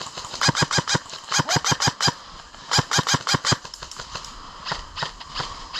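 Airsoft gun firing rapid strings of shots as sharp clicks, about eight a second: a long string, a shorter one about three seconds in, then fainter scattered shots near the end.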